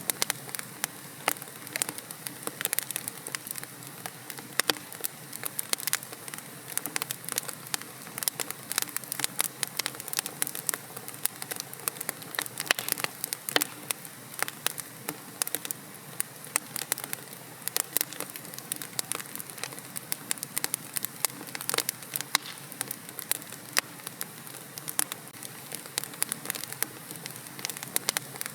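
Wood fire burning in a fireplace, with dense, irregular crackles and pops over a soft steady hiss.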